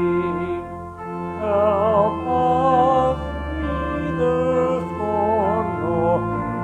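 Organ playing a hymn in a church, with voices singing along in a slow, held melody.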